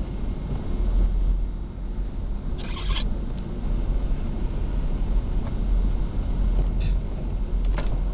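Loram rail grinder train's diesel engines running with a steady low rumble as it works the track, with a short hissing burst about two and a half seconds in.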